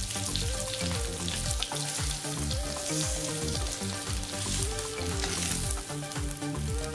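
Hot mustard oil sizzling steadily in a nonstick kadai as fried rohu fish steaks are lifted out of it with a wooden spatula.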